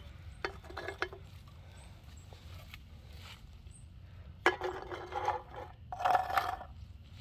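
Empty aluminum drink cans knocking, clinking and scraping as they are handled and set back up: a few light knocks in the first second, then two longer ringing clatters about four and a half and six seconds in.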